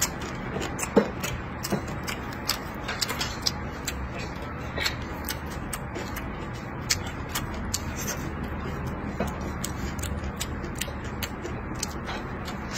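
A person chewing a mouthful of stir-fried meat and rice close to the microphone: many irregular wet mouth clicks and smacks, one louder about a second in.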